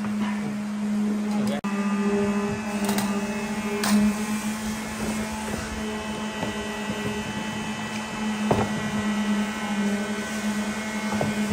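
An electric motor running with a steady hum, with scattered clicks and knocks over it.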